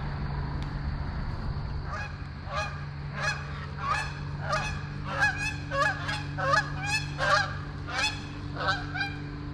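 A flock of geese honking, about a dozen short calls one after another starting about two seconds in, over a steady low hum.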